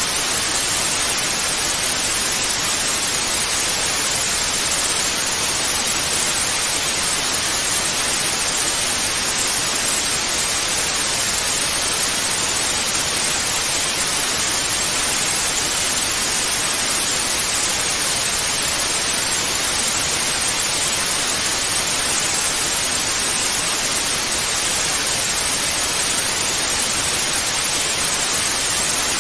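Analogue television static (snow): a steady, even hiss of white noise with no change in level, brightest in the upper range.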